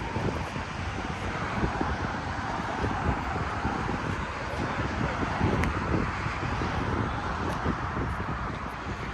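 Wind buffeting the microphone over a low, steady rumble of vehicles.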